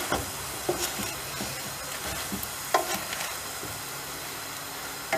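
Minced-meat gözleme frying in a mix of butter and oil in a nonstick pan: a steady sizzle, with a few short scrapes and taps of a wooden spatula against the pan.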